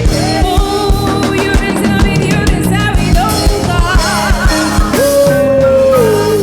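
Choir and live band playing together: voices singing a melody over drum kit and bass, ending on a long held sung note with vibrato.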